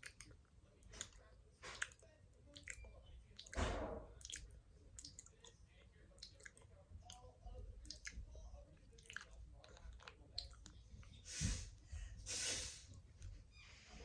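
Soft, close-miked ASMR sounds: scattered small clicks and taps, with a brief swish about four seconds in and two more near the end.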